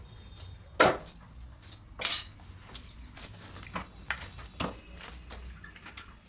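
Scattered sharp knocks and clatters, the loudest about a second in and another about two seconds in, over a low steady hum.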